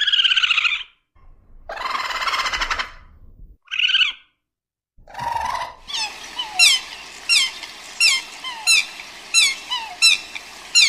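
A string of short, high bird calls, each falling in pitch, repeating about one and a half times a second over a faint steady background. Before them come a few separate short animal noises and a noisy burst.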